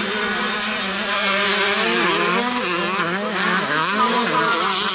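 Several 125cc motocross bike engines revving hard together, their pitches rising and falling as the riders work the throttles and shift.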